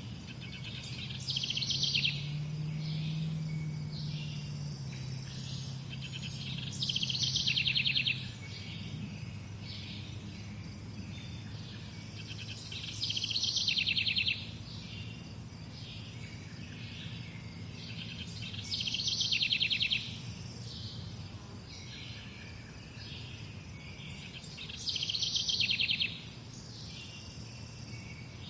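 Morning birdsong: one bird repeats a short, loud trilled song phrase about every six seconds, five times, over softer chirping from other birds. A low steady hum runs underneath.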